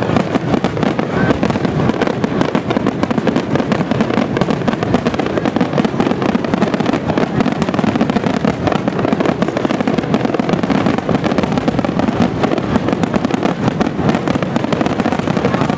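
Aerial fireworks going off in a rapid, unbroken barrage, the bursts and crackles so close together that they run into one continuous rumbling crackle.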